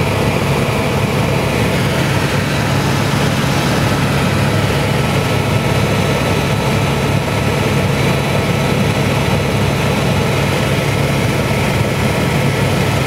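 Helicopter engine and rotor running steadily, a constant loud drone with no change in pitch.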